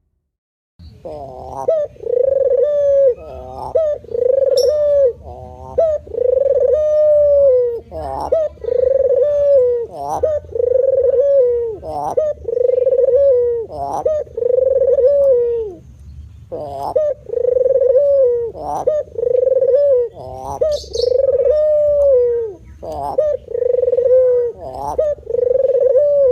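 Male puter dove (domesticated ringneck dove) cooing steadily: a long run of low coos, each about a second long and each led by a short upward note, repeated almost without pause.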